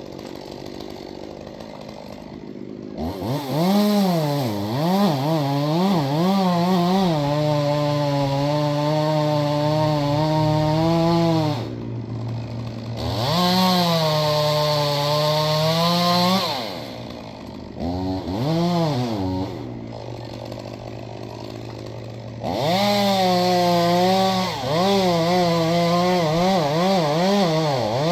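Gas chainsaw idling, then revving up and held at high throttle for several seconds at a time as it cuts wood. It drops back to idle a few times, with a short burst near the middle, and is back at full throttle near the end.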